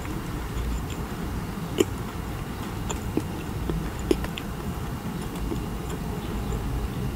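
Close-miked chewing of a macaron with the mouth closed: soft chewing broken by a handful of short, sharp mouth clicks, the loudest about two and four seconds in, over steady low background noise.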